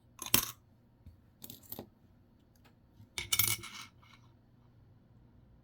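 Nickels clinking against each other as coins are handled and set down, in three short bouts of metallic clicks: one near the start, one around a second and a half in, and the loudest a little past three seconds.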